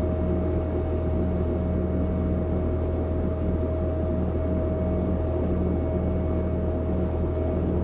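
Sandblasting equipment running steadily: a continuous hiss of blasting air over a low motor hum with a steady tone.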